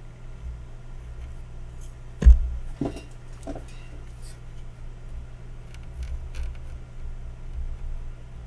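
Small clicks and knocks of hand tools being handled on a workbench, with one sharp, louder knock about two seconds in, over a steady low hum.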